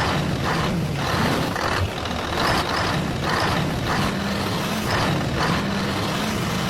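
Truck engine running steadily, with a hiss that pulses roughly once a second.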